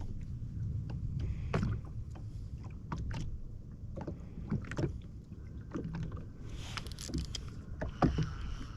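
Water lapping and slapping against the hull of a jet ski sitting still on the water, with scattered light knocks over a low wind rumble and a short splashy hiss about seven seconds in.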